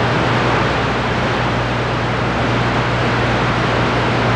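CB radio receiver hiss on the 11-meter band between transmissions, with a steady low hum under it.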